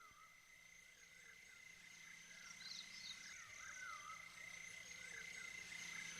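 Faint, repeated short chirping animal calls over a steady thin high tone, growing slowly louder.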